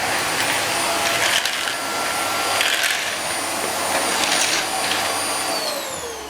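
Vacuum cleaner running with a steady motor whine and a few short bursts of crackling, then switched off about five seconds in, its whine falling in pitch as the motor winds down.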